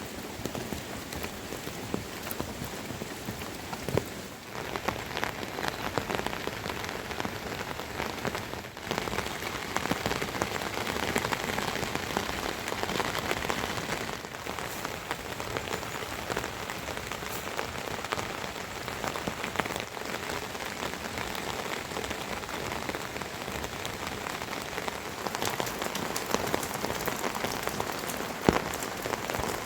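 Steady rain falling, an even patter made of many individual drops ticking, a little heavier in the middle, with one sharper drip near the end.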